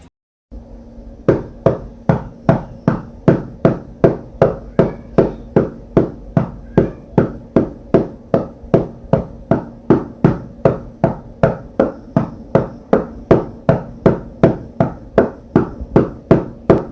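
Steady hammering: sharp, evenly spaced blows about three a second, each with a short ringing tone, starting about a second in.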